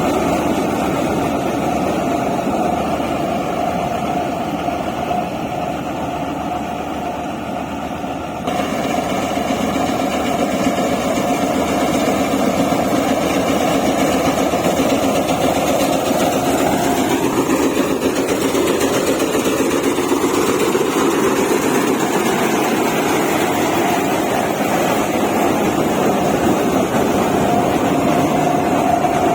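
Engine of heavy farm or earthmoving machinery running steadily. The sound changes abruptly about eight seconds in, and the engine note dips and climbs back partway through.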